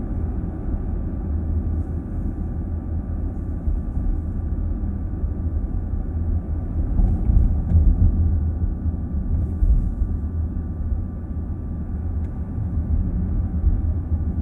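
Car cabin noise while driving: a steady low rumble of tyres and engine heard from inside the car, with a faint steady hum and a few faint clicks around the middle.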